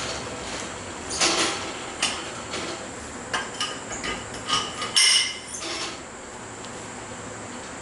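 Irregular metallic clanks and clinks of steel being handled with tools, a few ringing briefly, over a steady background hiss. The clanking stops about six seconds in, leaving only the hiss.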